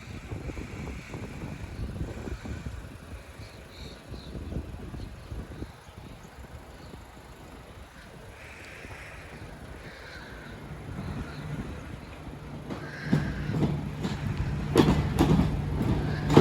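Southeastern Class 395 Javelin electric train approaching the level crossing. A low rumble gives way to a steady hum that grows louder from about ten seconds in. Near the end come sharp clicks of wheels over rail joints as it arrives.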